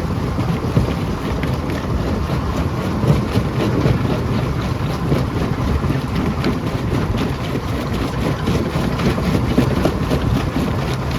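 Stone crusher running: a steady low rumble with a constant stream of small knocks and clacks from rock being broken.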